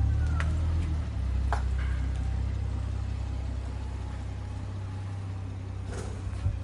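BMW 740i's reconditioned engine running with a steady low hum that changes pitch about a second in and then fades gradually. A sharp click near the end.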